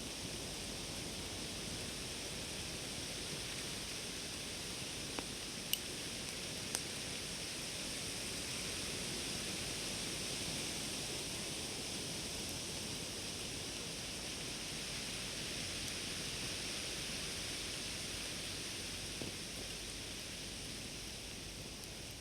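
Campfire burning down toward embers: a steady hiss with a few sharp pops, three close together about five to seven seconds in and one more near the end.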